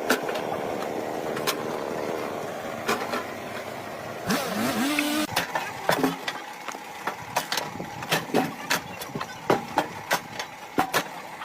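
A motor running steadily, then a short noisy burst with a rising pitch about four seconds in, followed by a string of irregular sharp knocks.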